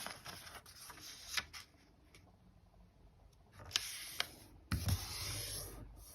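A square of origami paper being folded diagonally by hand: short crackles of the sheet, then rustling and rubbing as the crease is pressed down, with a soft thump a little before the end.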